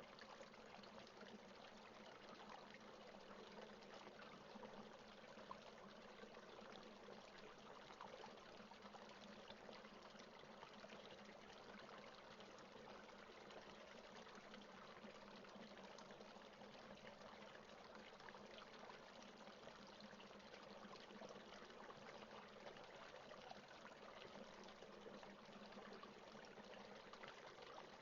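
Rain falling steadily and faintly, an even patter of many small drops, with no thunder.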